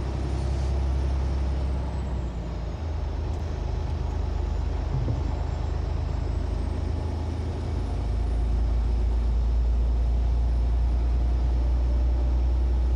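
Semi-truck engine and road noise heard from inside the cab: a steady low drone that changes about three seconds in and grows louder about eight seconds in.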